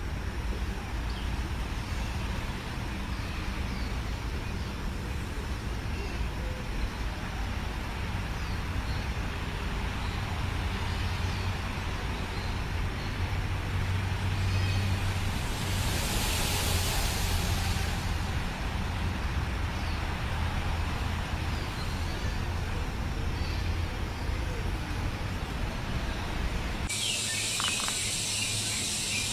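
Outdoor ambience dominated by a steady low traffic rumble, with faint short bird chirps now and then and a brief hiss about two-thirds of the way in. Near the end the sound changes abruptly to a steady high insect buzz.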